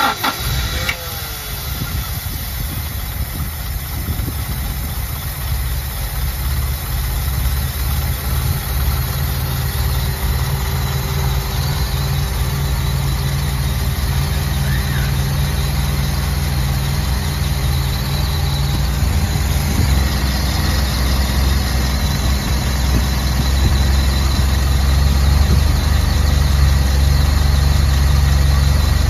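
Honda Accord Maestro engine running steadily after being started, slowly growing louder toward the end.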